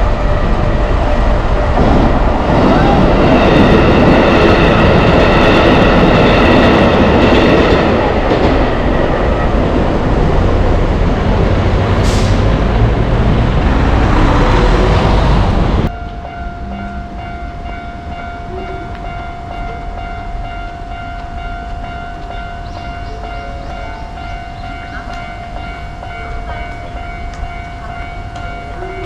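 An electric commuter train passing close by a level crossing: a loud rolling rumble with steady tones ringing above it, probably the crossing warning. About 16 seconds in, the sound cuts off abruptly to a quieter scene, where a steady level-crossing warning tone rings on.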